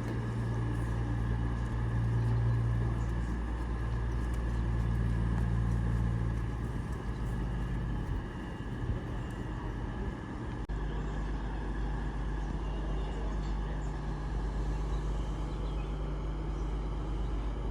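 CrossCountry Voyager diesel train's underfloor engines running steadily at the platform, a low even hum. About ten seconds in the sound changes suddenly and then runs on steady.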